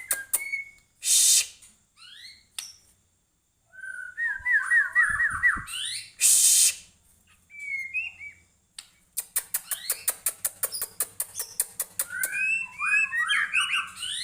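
White-rumped shama in full song: loud whistled phrases that glide up and down, broken by fast runs of ticking notes and short harsh bursts.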